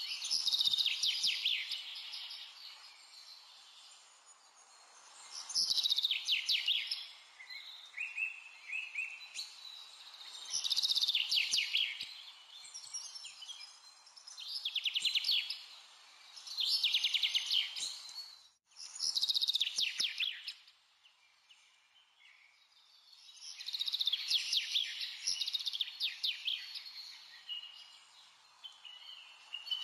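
A songbird singing rapid trilled phrases, each about a second or two long, repeated every four to five seconds over a steady hiss.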